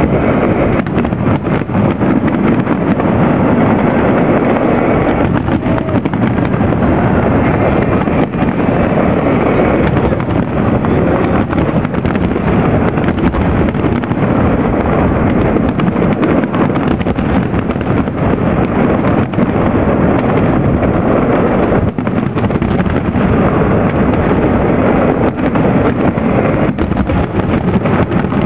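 Fireworks display going off steadily: a dense, unbroken run of bangs and crackle.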